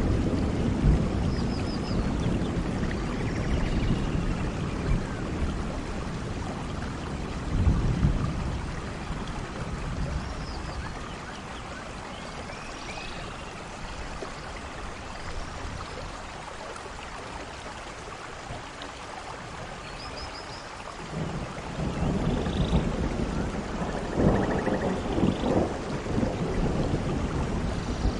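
Steady rain with rolling thunder. A rumble comes about eight seconds in, the storm eases for a while, then louder thunder rolls in again a little past the twenty-second mark.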